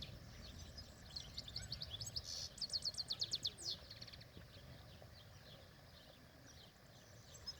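European goldfinch singing: a fast twittering run of short repeated high notes for the first few seconds, then falling nearly quiet, over a steady low background rumble.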